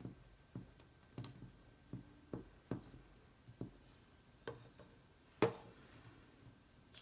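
Scattered light taps and knocks of handling construction paper and a glue stick on a tabletop, about ten at irregular intervals, with one louder knock about five and a half seconds in.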